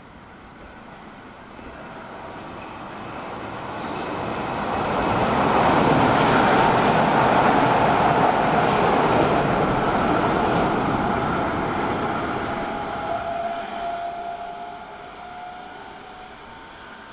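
Electric train passing by: its running noise grows louder, peaks, then fades as it moves away, with a tone that drops in pitch as it recedes.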